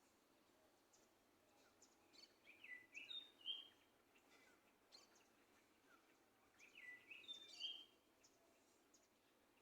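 Small songbirds singing faintly: two short phrases of quick chirping notes, one about two seconds in and another about seven seconds in, over a low steady background hiss.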